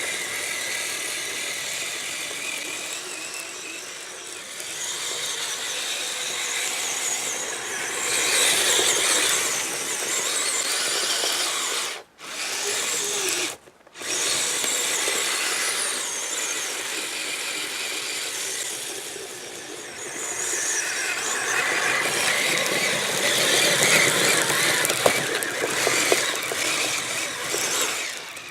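Kyosho Blizzard SR electric RC snow vehicle running through snow: its electric motor and rubber track drive whine, swelling and easing as the throttle changes. The sound drops out briefly twice near the middle.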